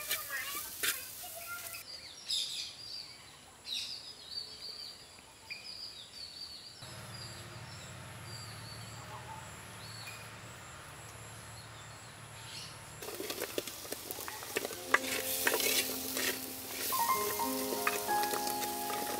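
Food frying and sizzling with a utensil clicking against the pot as it is stirred. A quieter stretch follows with short high bird chirps and then a low hum. The sizzling and stirring come back loudly about two-thirds of the way through.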